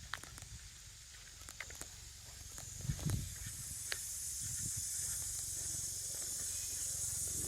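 Footsteps ticking on a walking path, with a high hiss that grows louder over the second half.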